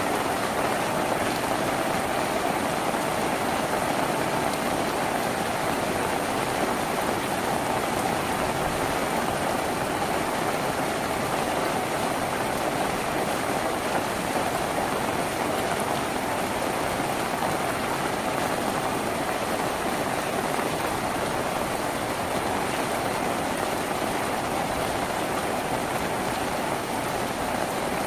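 Steady rain falling on a tin roof, an even hiss of drops that holds the same level throughout.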